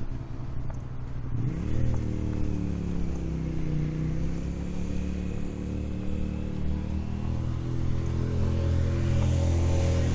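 A motor engine running, its pitch rising about a second and a half in and then holding steady, getting louder near the end.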